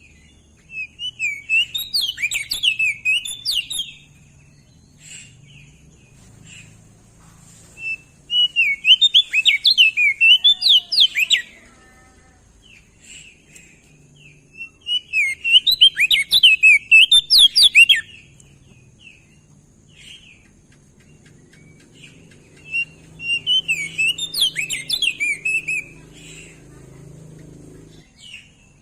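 Crested white-eye (opior jambul) singing: four bursts of rapid, warbling chirps about 3 seconds each, separated by pauses with short single calls.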